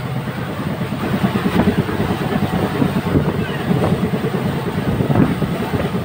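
Passenger train running at speed: a steady rush of wheel and track noise with a dense, rapid rattle.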